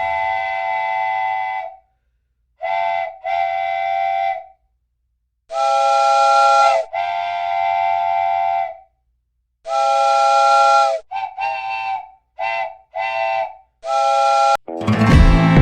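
Locomotive air horn sounding a series of about eleven long and short blasts. Each blast is a steady chord, the chord changes from blast to blast, and each one cuts off sharply.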